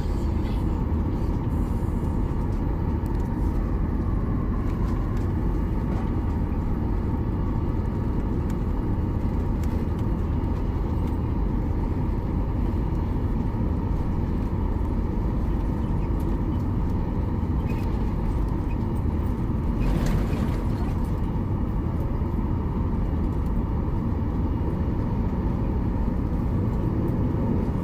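Steady low rumble of a moving vehicle heard from inside, with a brief rushing noise about twenty seconds in.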